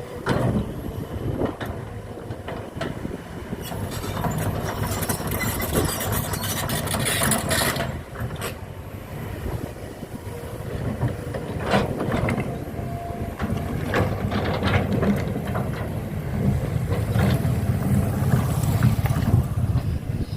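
A heavy engine running with a steady low rumble and scattered knocks and clanks, with a stretch of hiss partway through.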